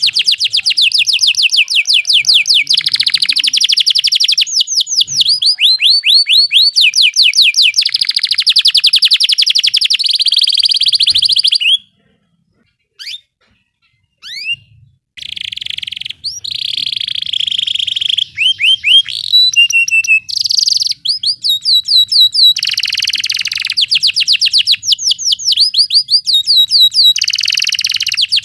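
Canary singing long rolling trills of fast repeated notes, each phrase at a different pitch. A pause of about three seconds breaks the song partway through.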